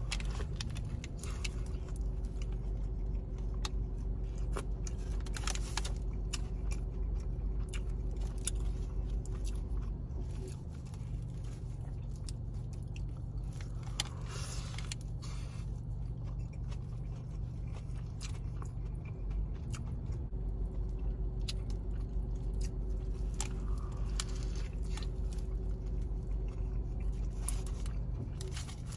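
A person biting into and chewing a fried spicy chicken sandwich dressed with lettuce and gravy, with crunches and wet chewing, over a steady low hum.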